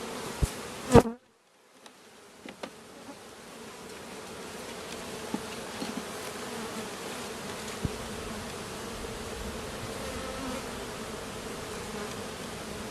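Honeybees buzzing around an open hive, a steady hum. About a second in there is a sharp click, the sound drops out briefly, and the buzzing then fades back up over the next few seconds.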